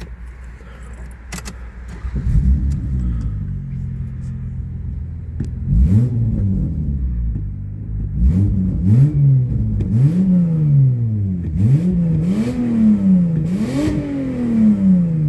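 Toyota Sienna's 1MZ-FE V6 engine with an exhaust leak, idling and then blipped about seven times from about six seconds in. Each rev rises and falls in pitch, and the later revs go higher. A few light clicks are heard in the first two seconds.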